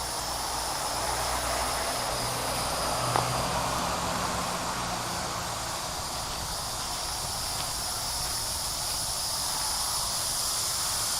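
Steady outdoor ambience: a high, even insect drone with a low hum underneath, and one short click about three seconds in.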